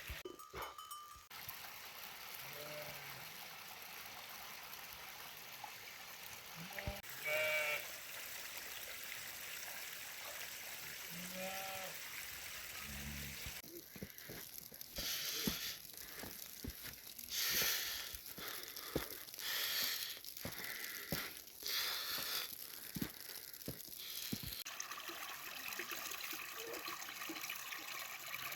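Steady running, trickling water, with a few faint short calls. Through the middle of the stretch comes a run of brief hissing splashes, about one a second.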